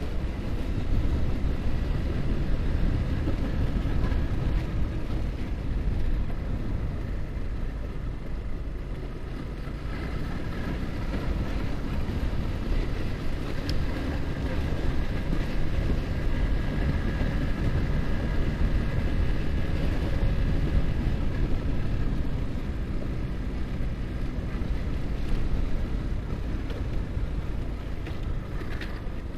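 Yamaha R15's single-cylinder four-stroke engine running at a steady cruising speed, heard under heavy wind noise on the microphone.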